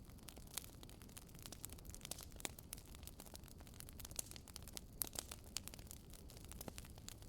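Wood fire burning in a fireplace, crackling with frequent irregular sharp pops and snaps, the loudest about five seconds in.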